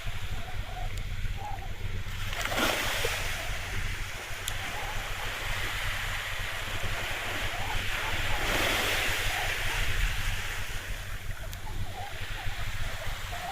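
Sea waves washing, with wind buffeting the microphone. The water swells louder about two and a half seconds in and again around eight and a half seconds, over a steady low hum.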